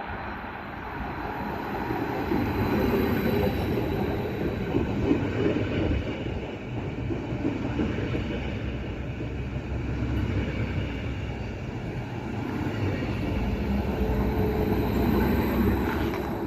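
A train running through the station: rumbling wheel and car noise that swells twice, with a thin high squeal from the wheels near the start and again near the end.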